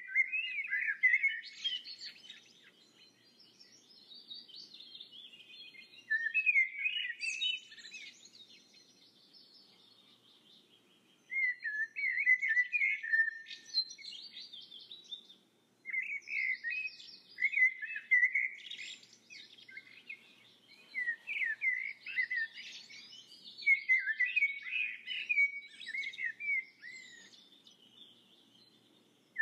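Songbird singing: short phrases of quick chirps and trills, each a few seconds long, with brief pauses between them.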